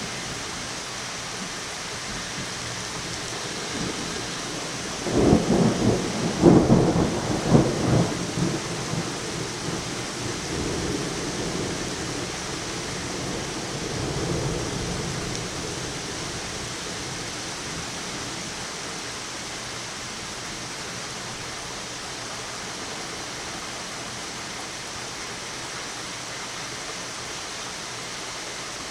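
Steady rain falling, with a thunderclap about five seconds in that cracks and rumbles loudly for a few seconds, then dies away in a low rumble by about halfway.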